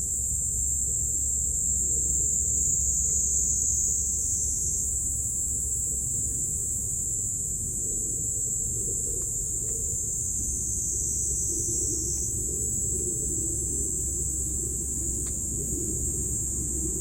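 A steady high-pitched chorus of insects chirring without a break, over a continuous low rumble like distant traffic.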